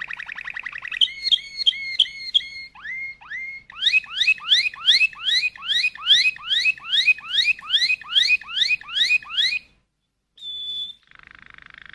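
Bird song: a few repeated whistled notes, then a fast series of rising whistled notes, about two a second, that breaks off abruptly. A short steady high whistle follows near the end.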